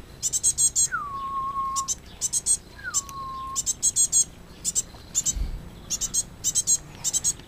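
Blue tit calling in quick bursts of short, high chirps, repeated over and over. Twice, about a second and three seconds in, a clear whistled note slides down and then holds steady.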